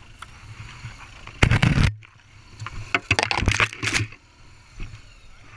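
Motorcycle engine running low under loud, rough, scraping noise: one burst about a second and a half in, then a cluster of them between about three and four seconds.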